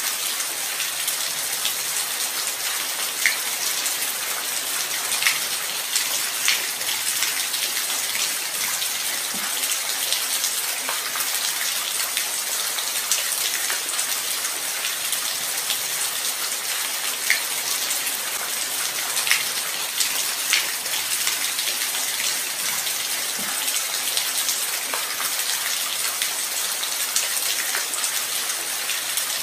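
Steady light rain: an even hiss with scattered louder single drops ticking through it.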